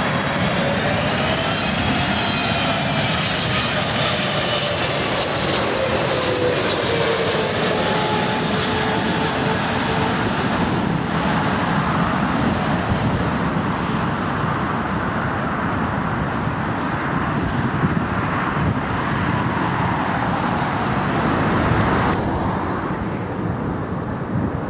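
Jet airliner passing close by, a steady rush of engine noise with whining tones that fall in pitch over the first several seconds.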